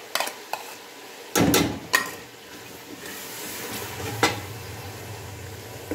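A spoon clinks and scrapes on a plate as fresh tomato paste is pushed into hot oil and masala in a pressure cooker. The paste hits the oil with a loud burst of sizzling about a second and a half in, then a steady sizzle goes on under wooden-spoon stirring, with a single knock against the pot a little past the middle.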